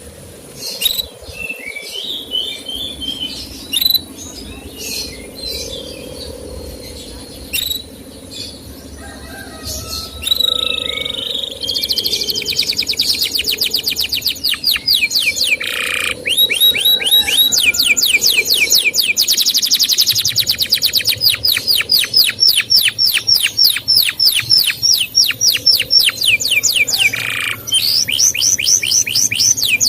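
Male canary singing: scattered chirps at first, then from about eleven seconds in a fast, running trill of rapidly repeated downward-sweeping high notes.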